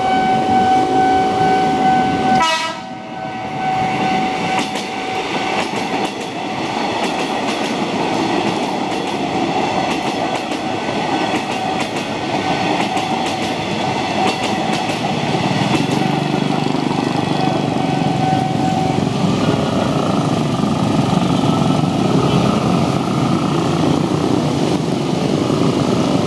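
Train passing over a level crossing, its wheels rumbling and clattering. A steady warning tone sounds for the first couple of seconds, then carries on as short broken beeps until past the midpoint.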